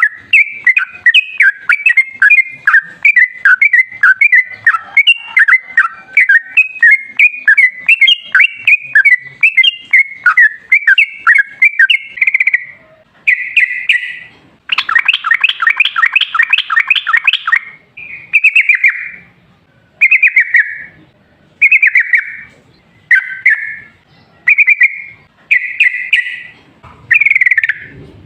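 Yellow-vented bulbul (trucukan) singing: a fast run of chattering, bubbly notes for about twelve seconds, a loud rapid trill about halfway through, then short bubbly phrases about every second and a half.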